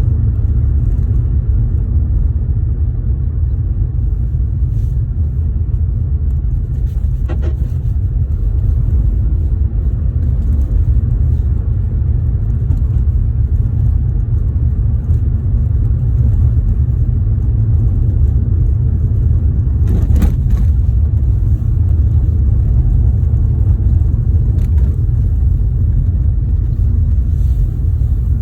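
A car driving, with a steady low rumble of road and running noise and a few short knocks, the loudest about twenty seconds in: the noise from the car's suspension.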